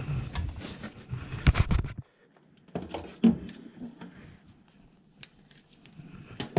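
Clicks and knocks from handling metal parts and tools inside a furnace cabinet. A low background noise cuts off suddenly about two seconds in, and sparser clicks and a knock follow.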